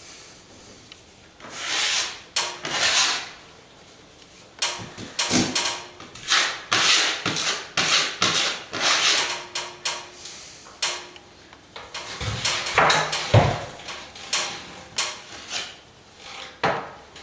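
A plasterer's hand tool scraping and rubbing wet cornice cement in a run of irregular strokes, with a couple of heavier knocks about three-quarters of the way through.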